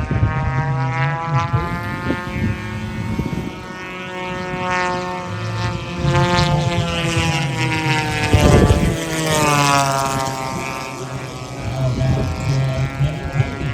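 Gasoline engines of large radio-controlled warbirds racing in flight; an engine note rises and then falls in pitch as a plane passes. There is a short loud rush of noise a little past the middle.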